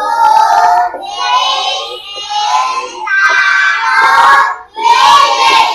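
A class of children reading aloud together in unison, chanting a line of text in a sing-song rhythm, phrase by phrase with short breaks between.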